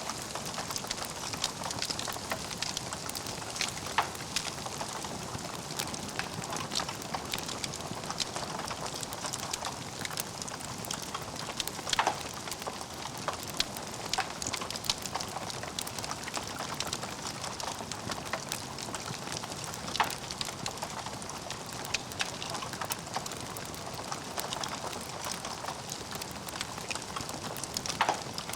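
Logs burning in a fireplace: a steady crackling hiss full of small pops and snaps, with a few louder pops.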